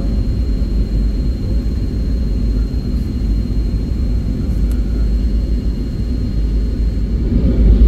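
Airliner cabin noise in flight: a steady low rumble of engines and rushing air with a faint high whine, getting louder near the end.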